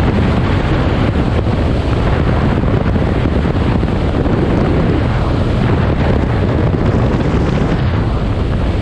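Wind rushing over the microphone on a moving motorcycle, loud and steady, with the motorcycle's engine and road noise underneath.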